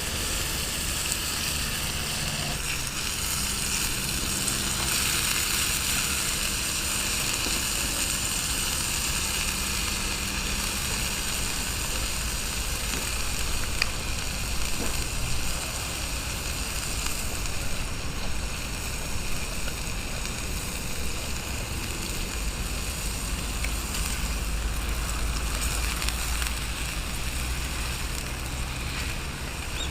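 Meat sizzling on a grill over a wood fire pit: a steady hiss with a few faint crackles, over a low wind rumble on the microphone that grows stronger near the end.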